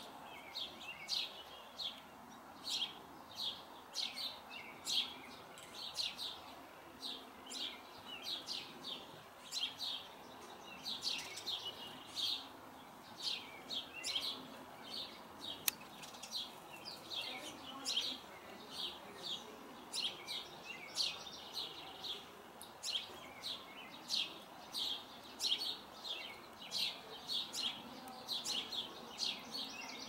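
Small birds chirping continuously, short high chirps coming several times a second, with a single sharp click about halfway through.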